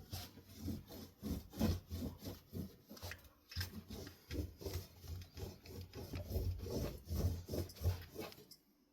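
Quick, repeated rubbing strokes of a faceplate being wiped and polished to remove smudges on a Litex New Orleans ceiling fan. The strokes stop shortly before the end.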